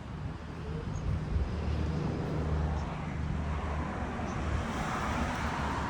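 A vehicle engine idling steadily with a low, even hum, and a rush of noise swelling about four to five seconds in.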